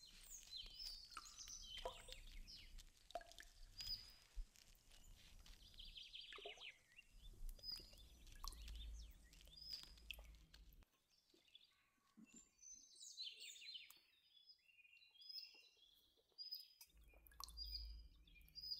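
Faint birdsong: many birds chirping and calling in short, scattered notes, with a low rumble that comes and goes.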